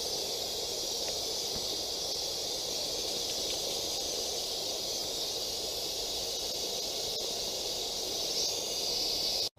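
Steady hiss of escaping steam from a Roundhouse Lady Anne live-steam garden railway locomotive, cutting off suddenly near the end.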